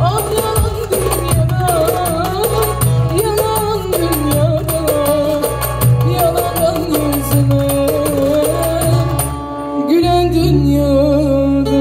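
Turkish folk song performed live through a PA: a singer's ornamented, wavering vocal line over a band with a steady repeating beat. Near the end the beat drops out for a moment, then sustained low notes come in under the voice.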